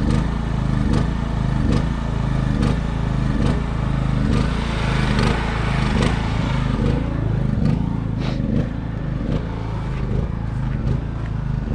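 Diesel engine running at a steady idle, with a regular knock a little faster than once a second, just after a cold-weather start on fuel that had gelled. A brief hiss comes in about five seconds in.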